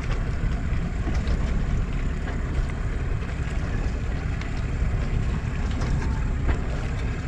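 Wind buffeting the microphone aboard a sailboat: a steady low rumble with a few faint knocks.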